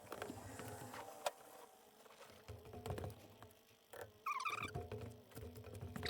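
Scattered small clicks and knocks of hand work on a brake caliper while it is being bled, with a short wavering squeak about four seconds in and another at the very end.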